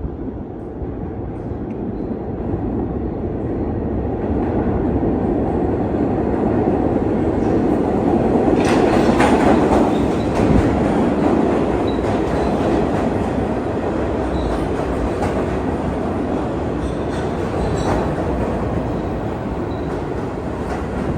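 New York City Subway train running on the track in an underground station, growing louder over the first several seconds and then staying loud, with faint clicks of the wheels over the rails.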